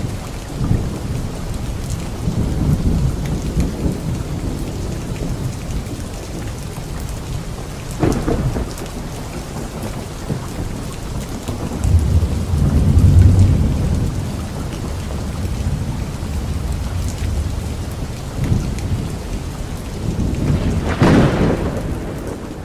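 Steady light rain falling on leaves, with rolls of thunder. The longest and loudest rumble comes about halfway through, and there are sharper claps about a third of the way in and near the end.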